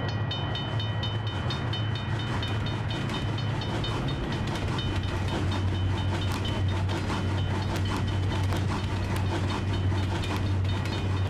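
Train sound effect: a steady low rumble with a fast, evenly repeating high ringing and clicking over it.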